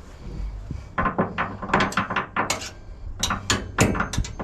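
Irregular metal-on-metal clanks and knocks from hand tools working the steel mounting hardware of a fifth-wheel hitch, starting about a second in.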